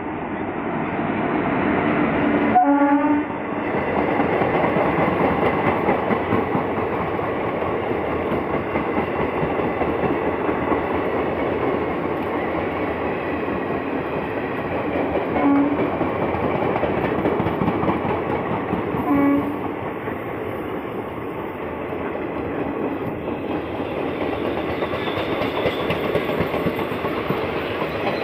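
An Indian Railways electric locomotive sounds its horn about two and a half seconds in as it runs through, then its passenger coaches rumble past with steady wheel-on-rail noise. Two more short horn blasts come partway through, around the middle.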